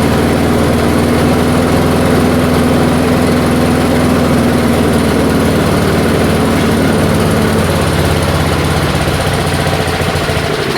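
1978 Allis-Chalmers 19-inch push mower's small engine running steadily at a fairly even speed, its sound thinning slightly in the last few seconds as it begins to falter. The owner suspects a bad carburetor diaphragm is keeping it from picking up fuel.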